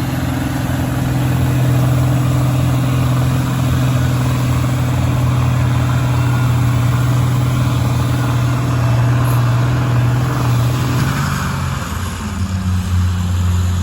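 Tractor engine running hard at a steady speed, its note dropping lower about twelve seconds in as the revs come down.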